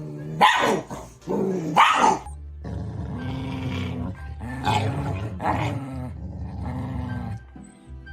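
A pet dog vocalizing: two loud cries falling in pitch in the first two seconds, then low, drawn-out growling.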